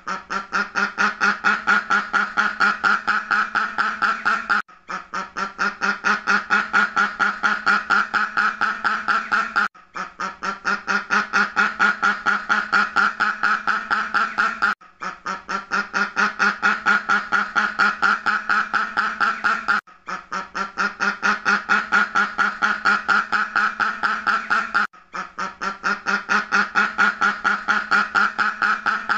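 Duck quacking in a fast, steady run of repeated quacks. The run breaks off briefly about every five seconds and starts again, a short recording looped over and over.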